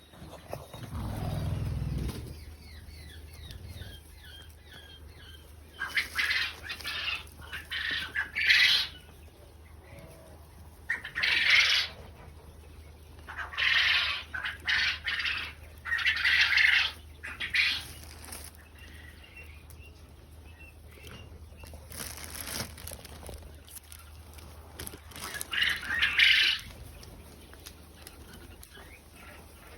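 Quail wings flapping in short flurries, about six of them, with faint chirping calls in between.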